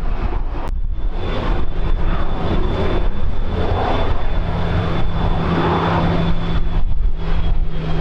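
Aircraft engines running, a steady loud rush with a thin high whine that sets in about a second in and a low hum joining about halfway.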